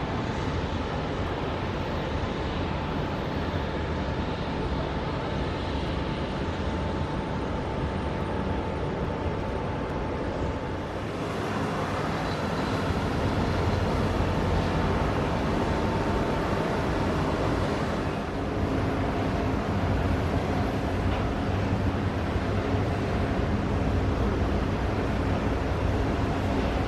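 Jet aircraft engines running steadily, with a thin whine under the noise; about eleven seconds in the sound changes and grows somewhat louder.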